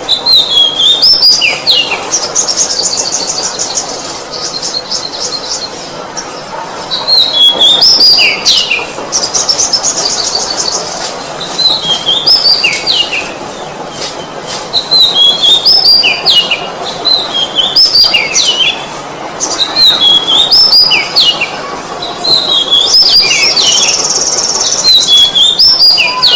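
Oriental magpie-robin (kacer) singing loudly: short whistled phrases with sliding notes, repeated over and over, broken three times by bursts of fast high trilling.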